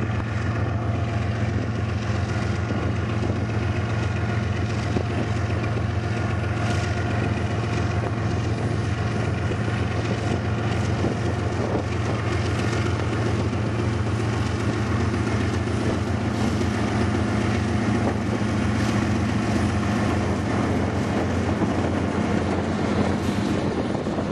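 BNSF diesel locomotives at the head of a loaded coal train, their engines running in a steady, deep drone as they roll slowly past close by, with rumble and a few clicks from the wheels on the rails.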